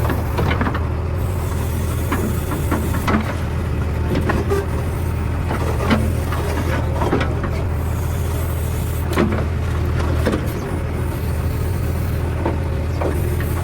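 JCB backhoe loader's diesel engine running steadily, with scattered knocks and clanks over it; the sharpest knocks come about six and nine seconds in.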